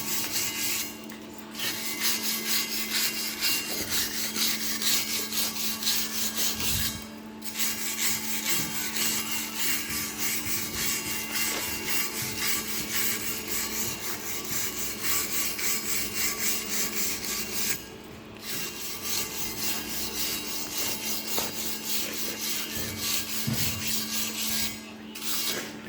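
Electric arc welding on 316L stainless steel: a steady, dense crackle with a constant hum under it. The arc breaks off briefly three times, about a second in, around seven seconds and around eighteen seconds, and stops near the end.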